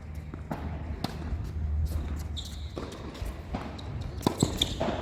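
Tennis ball knocks on a court: a ball bouncing and being struck, with sharp knocks scattered irregularly and the loudest cluster a little after four seconds in.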